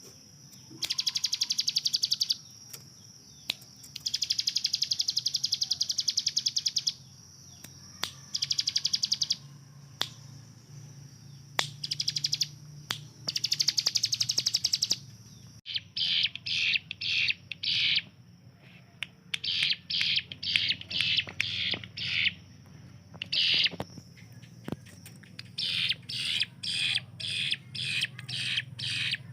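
Ciblek gunung, a prinia, singing in rapid-fire bursts. In the first half come long, fast, rattling trills of one to two seconds each; after that come shorter choppy bursts in quick succession.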